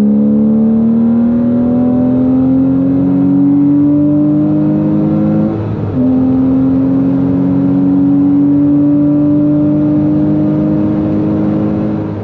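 The flat-six of a 2003 Porsche Boxster S accelerating hard, its pitch climbing steadily. A little past halfway there is one upshift, and the pitch drops and then climbs again. The engine has been freshly rebuilt after a main bearing failure.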